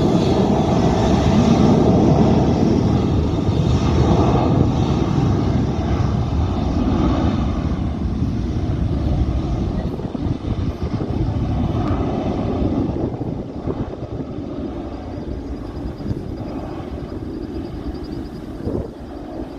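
Jet airliner engine noise: a loud, dense rumble that gradually fades away over the second half as the aircraft moves off.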